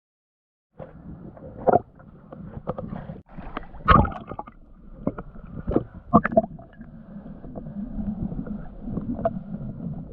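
Muffled water sloshing and splashing with irregular knocks and clicks, the sharpest about 4 seconds in and again about 6 seconds in.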